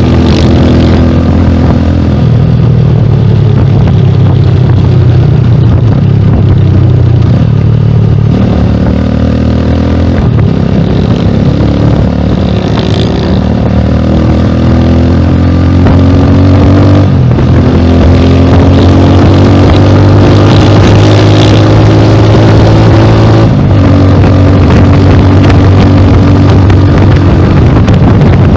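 Rusi Classic 250 motorcycle with a bullet-style exhaust pipe on the stock elbow, accelerating on the move. The engine note climbs in pitch again and again, breaking briefly at several gear changes.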